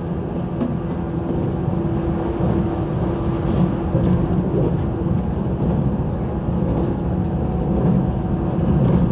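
JR 185 series electric multiple unit running at speed, heard from inside the carriage: a steady rumble of wheels on rail with a constant low motor hum.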